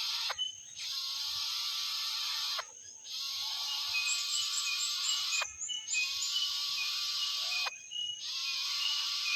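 Cicadas buzzing in repeated phrases of two to three seconds. Each phrase cuts off with a quick falling sweep before the next begins. Short bird chirps sound over the buzz.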